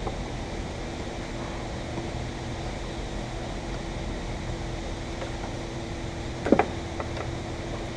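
A steady mechanical hum, like a running fan, with a brief cluster of sharp knocks a little after six seconds in.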